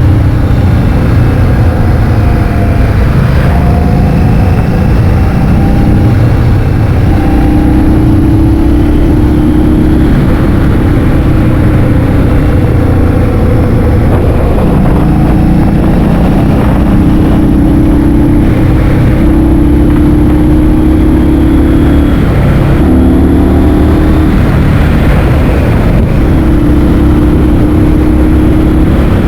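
Heavy wind buffeting on the microphone while riding a motor scooter. The engine's drone sits underneath and steps up and down in pitch every few seconds.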